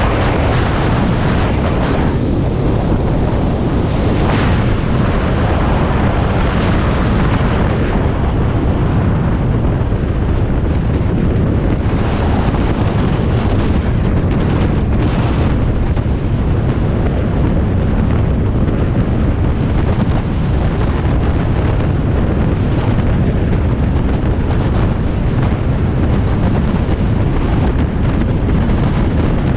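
Loud, steady wind buffeting on the microphone of a motorcycle at road speed, with the Harley-Davidson Sportster Iron 1200's engine and road noise under it.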